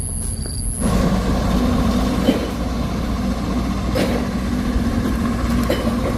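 Small engine running steadily, setting in about a second in, with a few faint knocks over it.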